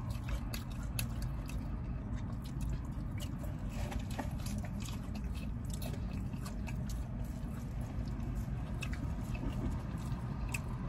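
Close-up chewing and biting of Raising Cane's fried chicken fingers: irregular wet mouth clicks and soft crunches, over a low steady rumble.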